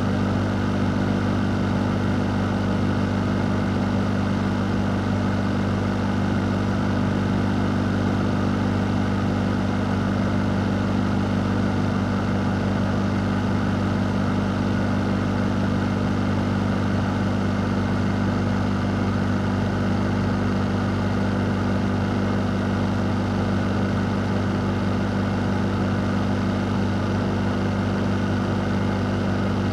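Fan running steadily for sleep white noise: a constant low motor hum under an even whoosh of moving air, with no change in speed.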